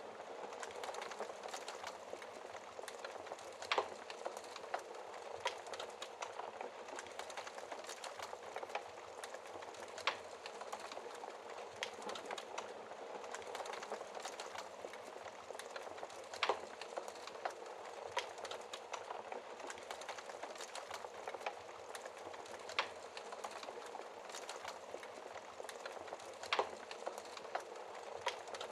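Wood fire burning in a fireplace: a steady fine crackle with a sharper, louder pop every few seconds.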